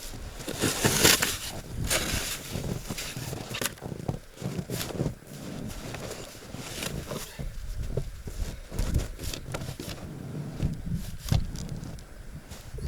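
Snow being shovelled: irregular crunching and scraping strokes of a shovel through packed snow.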